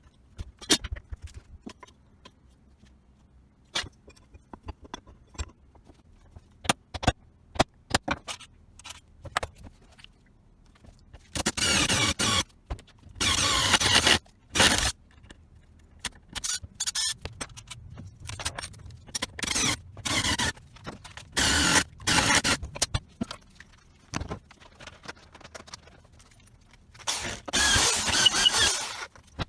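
Workshop handling noises: light metal clinks and knocks of tools and parts, then several irregular scraping or hissing bursts of about a second each, the longest near the end.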